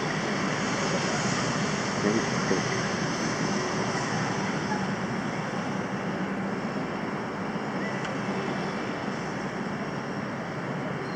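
Steady street traffic noise from jammed, slow-moving vehicles: an even wash of engine and road sound with no distinct events.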